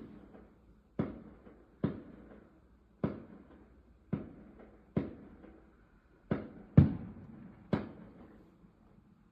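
Fireworks going off: about eight sharp bangs roughly a second apart, each trailing off in an echo, the loudest about two-thirds of the way through.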